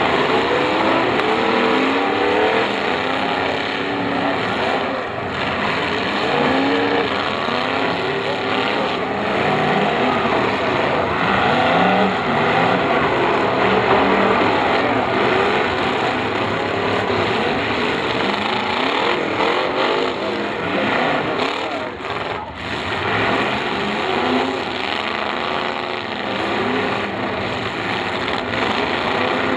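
Several demolition derby cars' engines running and revving at once, their pitches rising and falling over each other as the cars push and ram in a pack.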